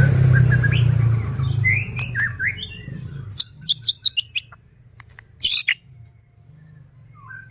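White-rumped shama singing: short whistled notes and pitch glides, then a run of sharp, crackling notes between about three and six seconds in. A low rumble underneath fades out over the first two seconds.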